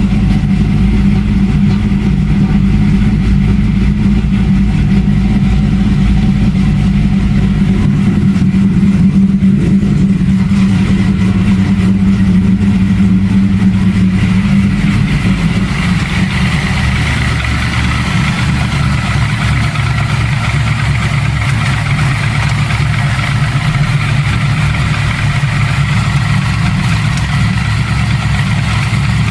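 Pontiac Trans Am's LT1 5.7-litre V8 idling steadily seconds after a cold start, in freezing weather and after weeks of sitting. The sound of the idle shifts about halfway through.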